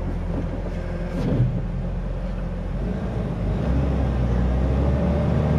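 Jeep Wrangler's 4.0-litre inline-six idling steadily, shortly after a cold start. Its low hum grows louder about three and a half seconds in.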